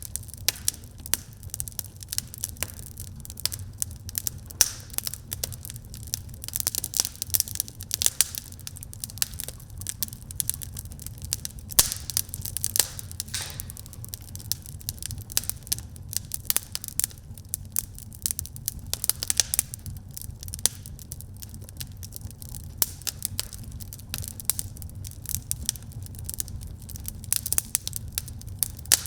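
Wood fire burning in a fireplace, crackling and popping irregularly without pause over a low steady rumble of the flames.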